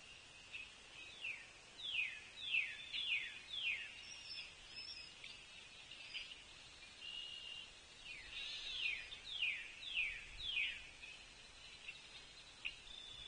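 Outdoor birdsong: a songbird repeating clear downslurred whistles, about two a second, in two runs (one early, one in the second half), with fainter chirps from other birds between.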